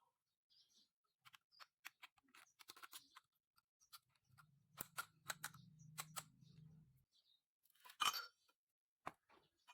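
Scattered light clicks and taps of hand tools and metal engine parts being handled during engine repair, with a low hum for a few seconds midway and a louder clatter about eight seconds in.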